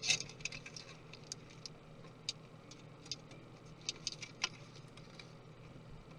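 Irregular small clicks and light taps of hand tools and small parts being handled while a MacBook Pro is taken apart. The clicks come thickest in the first half-second, then scattered, with a sharper one about four and a half seconds in.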